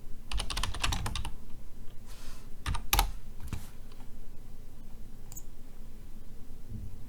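Typing on a computer keyboard to run a search: a quick run of keystrokes in the first second or so, then a few single key presses around three seconds in.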